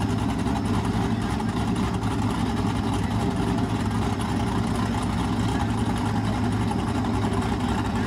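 Pontiac Trans Am's engine idling steadily, a low even drone with no revving.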